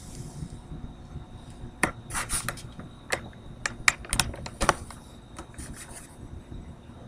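A run of irregular sharp clicks and scrapes, bunched together starting about two seconds in and thinning out after about five seconds, over a faint steady high tone.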